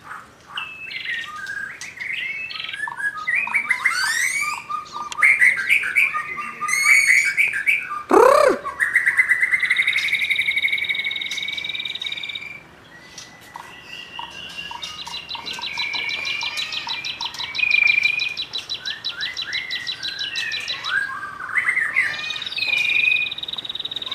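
Young white-rumped shama singing a loud, varied song of quick whistled phrases. It breaks into long rapid trills about ten seconds in and again from about fifteen to twenty-one seconds.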